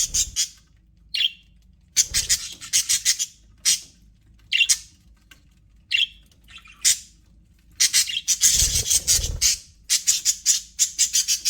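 Budgerigars chattering and squawking in bursts of fast, high warbling, with short pauses between. The longest, loudest stretch comes about two thirds of the way in, with low thumps beneath it.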